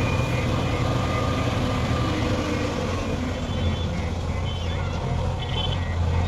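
Heavy diesel machinery engine running steadily at a low, even pitch, from the combine harvester towing the JCB 3DX backhoe loader.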